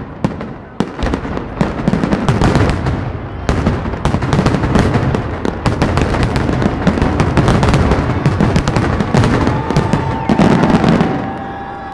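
Aerial firework shells bursting in a dense barrage, with a thick continuous crackle of golden crackling stars and repeated bangs, dying away about eleven seconds in.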